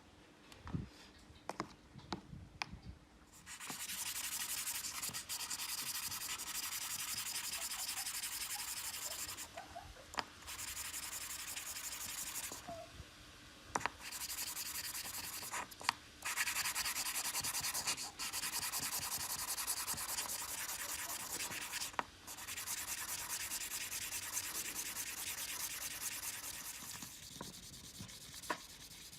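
Abrasive sanding on a Zippo lighter's metal case, in five spells of a few seconds each with short pauses between. A few light clicks come before the first spell.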